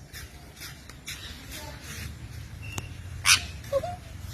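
A short, sharp animal call a little over three seconds in, followed by a brief wavering cry, over faint scattered clicks.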